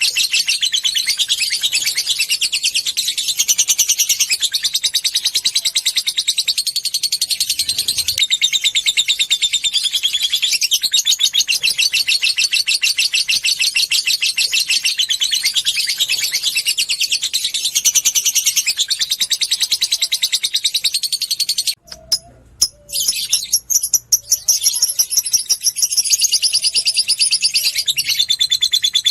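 Lovebird giving a long 'ngekek' song: a very fast, high, unbroken chattering trill of rapid chips. It breaks off for a second or two about three quarters of the way through and then starts up again.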